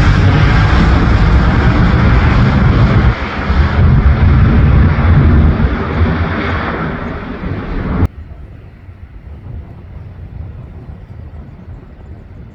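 Jet airliner's engines at takeoff power as it departs: a loud, deep rumble that slowly fades as the plane climbs away, then cuts off abruptly about eight seconds in, leaving only a faint low rumble.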